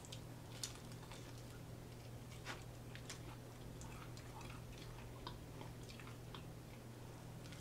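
Close-miked chewing of food, with faint irregular wet mouth clicks a few times a second, over a steady low hum.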